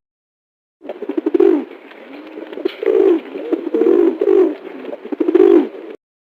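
Pigeons cooing: a series of low, throaty coos repeated every second or so.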